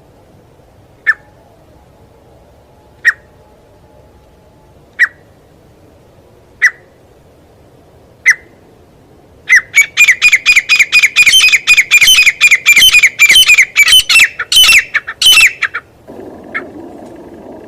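Grey francolin (teetar) calling: single loud, sharp notes about every two seconds, then a fast run of loud, ringing repeated notes, about four a second, for some six seconds, which stops suddenly.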